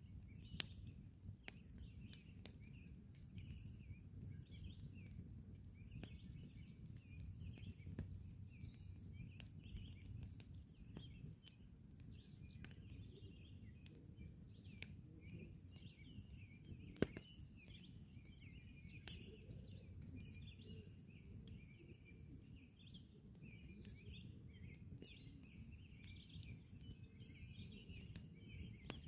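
Campfire burning with soft, scattered crackles and two sharper pops, one just after the start and one about halfway through. Birds chirp and twitter steadily behind it.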